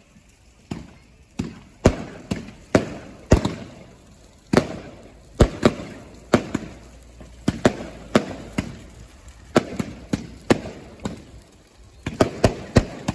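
Fireworks going off in quick succession: a long, irregular string of sharp bangs, about two a second, each trailing off briefly.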